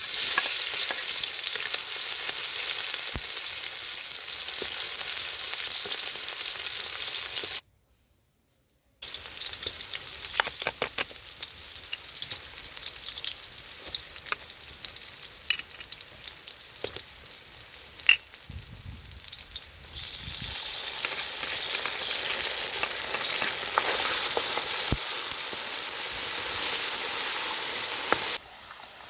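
Food frying in hot oil in a pan: a steady sizzle with scattered sharp crackles and pops. It stops briefly about eight seconds in, then resumes.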